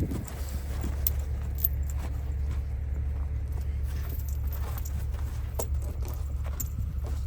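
Logging truck running steadily with a low engine drone, with light rattles and clicks scattered over it.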